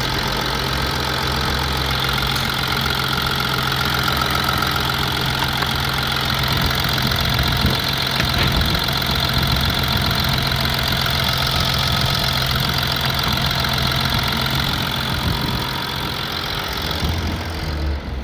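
Audi 2.7 TDI (BPP) V6 diesel engine idling steadily, with the typical diesel knock.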